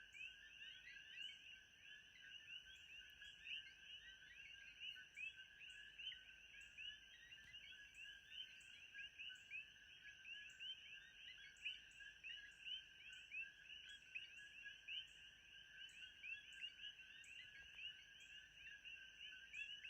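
Faint ambience of a dense chorus of short, high chirps from many calling animals, steady throughout. A thin steady high tone and a faint regular tick about twice a second sit above it.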